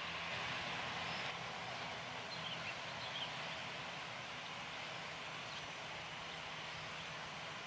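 Steady outdoor background hiss with a faint low hum, and a few faint bird chirps about two to three seconds in.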